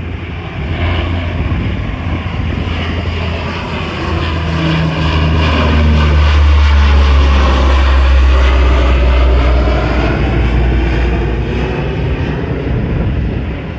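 Propeller-driven aircraft flying past, its sound swelling to a peak about halfway through and then easing, with the engine pitch dropping as it goes by.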